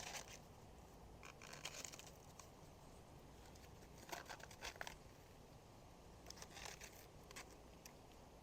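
Faint rustling and crisp snipping as elephant ear stalks are cut back with pruning shears. The sounds come in four or five short clusters with quiet between them.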